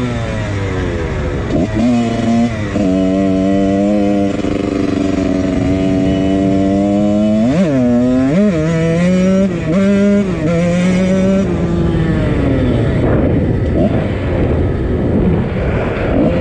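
1999 Husqvarna CR125 125cc two-stroke dirt bike engine, fitted with a Pro Circuit exhaust, running under a rider. The revs drop near the start and hold steady for a few seconds. Two quick sharp revs come about halfway through, and the running turns choppier and more uneven near the end.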